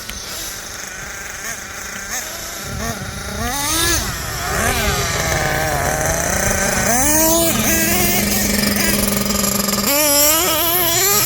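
Small two-stroke glow (nitro) engines of radio-controlled monster trucks revving, their pitch climbing and falling again and again. A steadier engine note holds for a few seconds in the middle.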